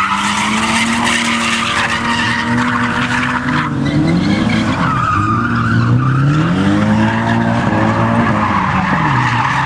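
A car being drifted: its engine revs rise and fall several times as the throttle is worked, while the tyres squeal through the slide.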